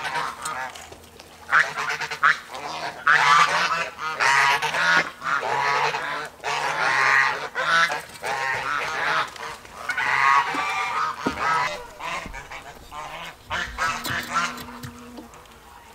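Farm poultry calling over and over: loud, pitched calls in clusters with short pauses between them, thinning out near the end.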